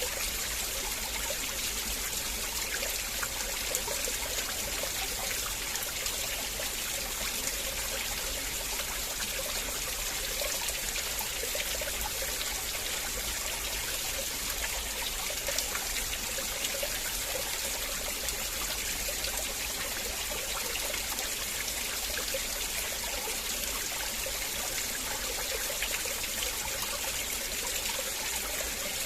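River water flowing and trickling steadily, an even rushing hiss with no breaks.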